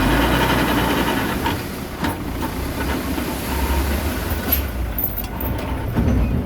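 Komatsu D21A mini crawler bulldozer's diesel engine running under work, with short metallic clanks and rattles of the tracks here and there.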